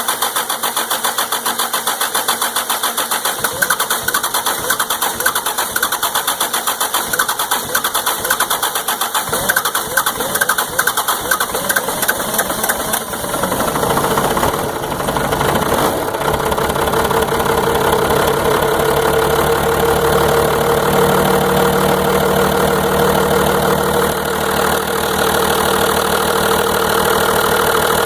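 Engine cranking over on its starter for a long time, the hard start the title names. It catches about thirteen seconds in, runs unevenly for a couple of seconds, then settles into a steady idle.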